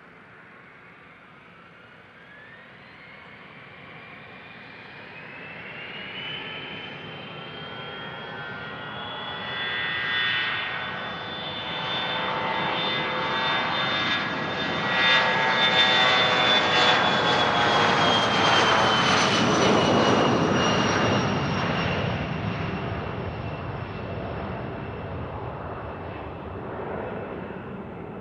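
Business jet engines spooling up with a rising whine, then the jet passing on its takeoff run: a loud jet roar and rush that peaks and fades, the whine dropping slightly in pitch as it goes by.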